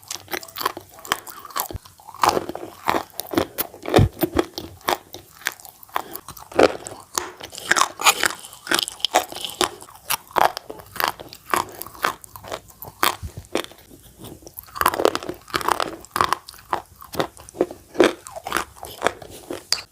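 Chalk being bitten and chewed close to the microphone: a dense run of sharp, dry crunches, several a second, irregular, with louder clusters.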